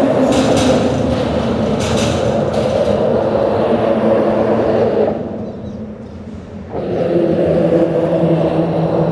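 Loud, steady rumble of vehicle traffic with a low engine drone, dipping briefly a little past the middle before the drone comes back.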